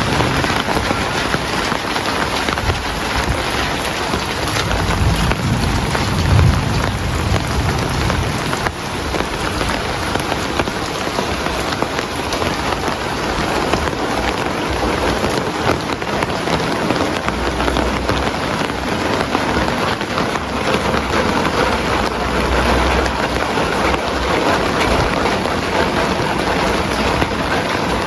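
Heavy rain falling steadily, a dense even hiss, with low rumbles of thunder swelling about five seconds in and again past the middle.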